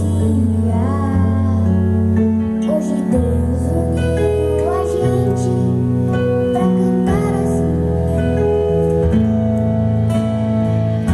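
Band playing an instrumental passage of a slow gospel song: held chord notes over a bass line that changes every second or two, with a gliding melody line on top.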